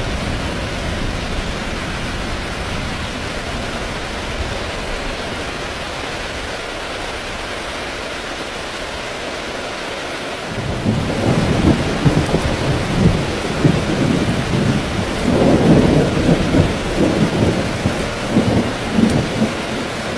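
Heavy rain falling steadily, with a long roll of thunder rumbling in about halfway through and swelling and fading in waves for the rest.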